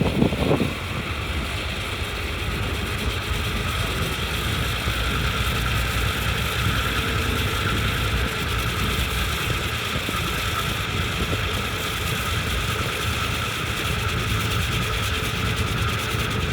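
River ferry's engine running steadily: a constant low rumble with a steady higher whine over it.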